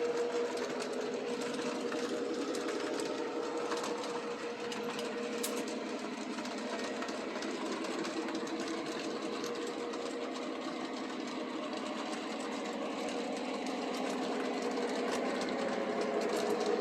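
Model train running on the layout track: a steady whir of the locomotive's small electric motor and the rolling of the wheels, growing a little louder near the end.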